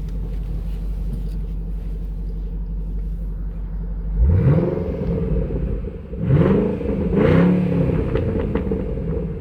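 2012 Shelby GT500's 5.4-litre supercharged V8 idling steadily, then revved three times from about four seconds in, each rev rising and dropping back toward idle.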